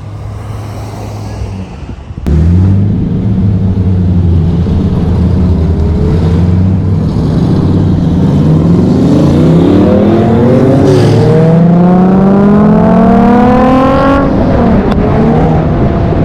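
Car engine sound that comes in suddenly and loudly about two seconds in, then rises in pitch through several seconds of acceleration before dropping sharply near the end: cars revving and accelerating as they pull away past the spectators.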